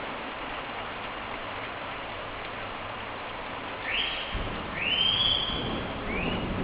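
Steady hiss of rain falling during a thunderstorm. About four seconds in a bird gives three short rising whistled calls, and a low rumble builds underneath.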